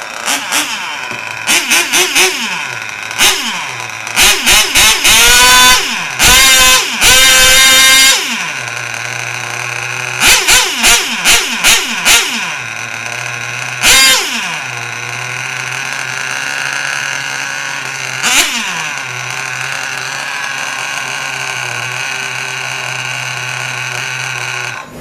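A micro mini pulling tractor's small alcohol-fuelled engine catching in scattered bursts, then running. It is revved hard in a string of short, loud blips that climb steeply in pitch and fall back, settling to a steady idle between them.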